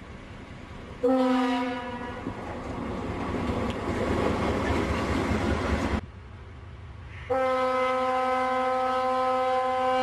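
Diesel locomotive horn on a snow plow train, with one short blast about a second in and one long steady blast in the last few seconds. Between the blasts, the train runs with a rushing noise as it ploughs through deep snow, growing louder as it approaches.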